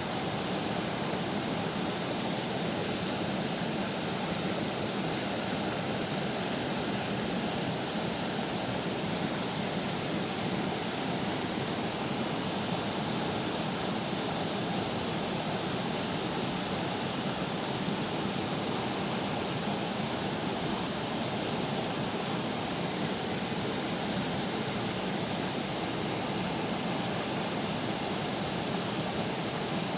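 River water flowing, a steady even noise with no breaks or changes.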